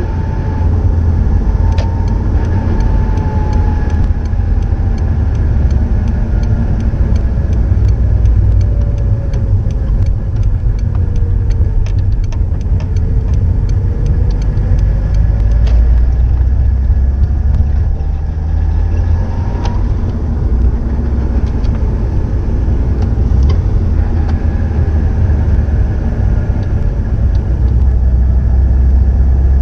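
Subaru Impreza WRX STI (GDB) EJ20 turbocharged flat-four running through its STI Genome exhaust muffler, a steady deep rumble. A higher tone within it slowly drops over the first twelve seconds or so and then climbs back, as the engine speed changes.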